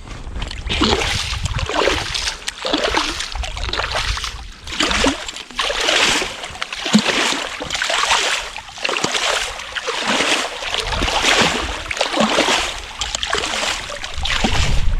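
Repeated rhythmic cutting strokes into lake ice, a little under two a second, with slushy water splashing, as a hole is worked open through the ice.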